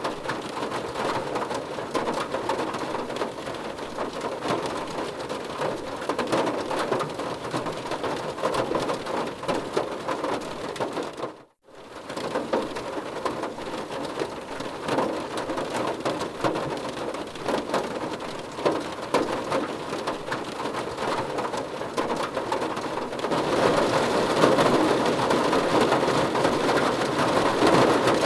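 Steady heavy rain, a dense hiss of countless separate drops landing on a hard surface. The sound cuts out for a split second about eleven seconds in, then returns, and grows a little louder near the end.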